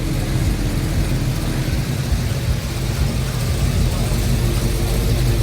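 Car engine running steadily, a low, even rumble.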